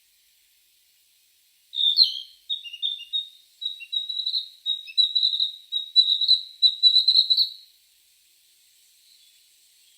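A songbird singing: a quick run of short, high chirps and whistled notes lasting about six seconds, starting about two seconds in, followed by a faint hiss.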